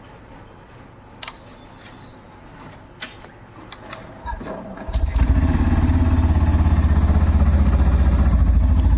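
A few light clicks, then a motorcycle engine is started: it cranks briefly about four seconds in, catches about a second later and settles into a loud, steady idle.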